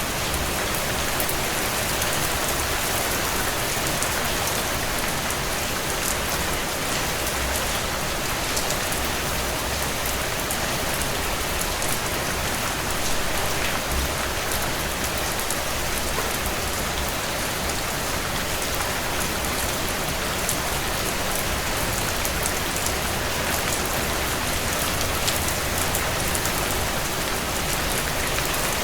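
Heavy rain falling steadily on a tin roof: a dense, even hiss peppered with sharp ticks of single drops striking the metal, over a low rumble.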